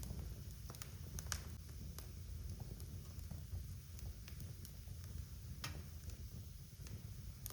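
Wood fire burning in a fireplace: irregular sharp crackles and pops of the burning logs over a low steady rumble of the flames.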